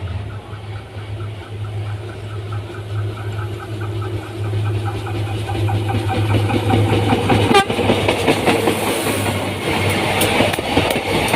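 A train approaching and passing close by, with a steady low engine hum and a rhythmic rattle. After about seven seconds it grows into loud, dense clattering of wheels over the rails.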